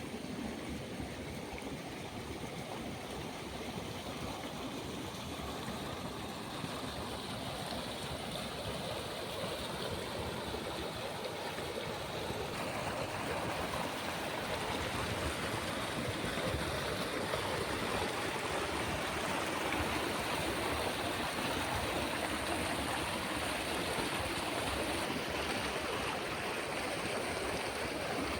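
Stream water flowing steadily with no break, getting somewhat louder after about twelve seconds.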